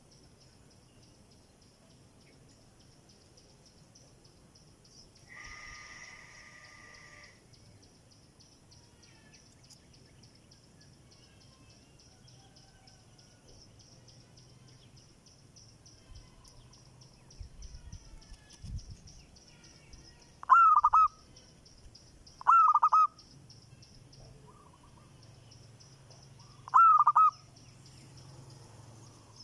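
A bird giving short, loud calls, four times a few seconds apart in the second half, over a steady, fast-pulsing high chirring.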